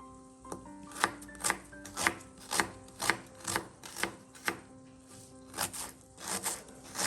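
Knife chopping on a cutting board, about two strokes a second, pausing briefly just after the middle, over soft background music.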